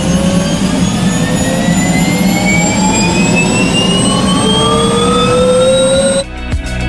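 Helicopter turbine engine and rotor: a steady low drone under several high whines that climb slowly and evenly in pitch. It cuts off suddenly near the end.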